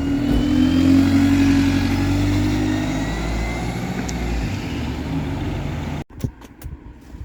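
Diesel bus engine running with a low rumble and a faint whine rising in pitch. The sound cuts off abruptly about six seconds in, followed by a few sharp clicks.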